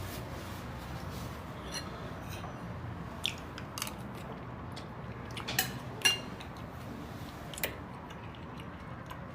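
Cutlery clinking against a dish while eating: about six short, sharp clicks at uneven intervals.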